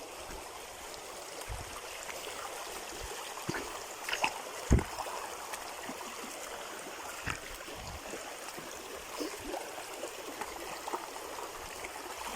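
Steady rush of flowing water, like a small stream, with a few short knocks and thumps over it, the loudest about five seconds in.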